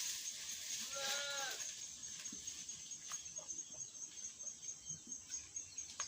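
A single wavering bleat from a sheep or goat about a second in, lasting about half a second, followed by scattered soft clicks and rustles.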